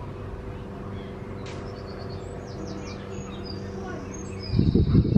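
Birds chirping in short high calls over a steady low hum, then a loud rumbling burst near the end as the hum cuts off.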